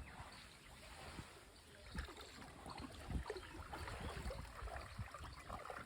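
Faint river water lapping and trickling, with soft irregular low knocks and splashes.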